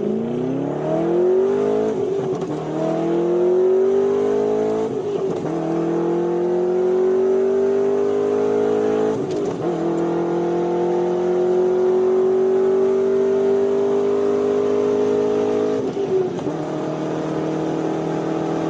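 Chevrolet Corvette Z06's 7.0-litre LS7 naturally aspirated V8 accelerating hard up through the gears. The engine note climbs in each gear and drops back at four upshifts, each gear pulling longer than the last.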